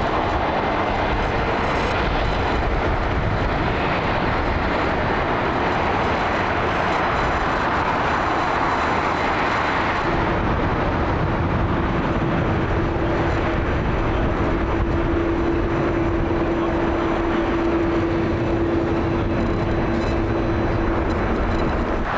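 Boeing 787 airliner's jet engines: a loud, steady rush of engine noise, joined about ten seconds in by a steady hum that holds nearly to the end.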